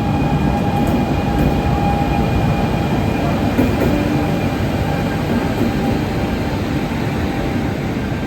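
Train running on the rails: a loud, steady rumble with a faint steady whine over it.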